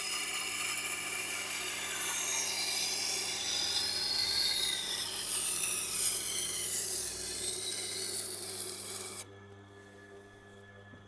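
Steady rasping scrape of something pressed against a turning Tormek grinding wheel, which stops abruptly about nine seconds in, leaving the low hum of the machine running and a couple of short clicks near the end.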